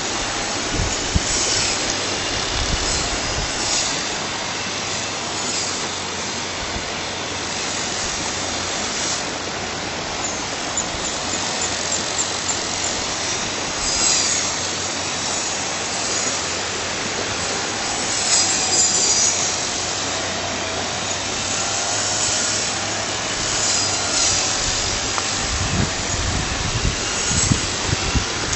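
A steady rushing hiss with faint high chirps a few times.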